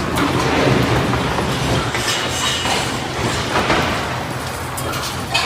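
A skyscraper shaking in an earthquake: a steady rumble with scattered rattling and clicking of the structure.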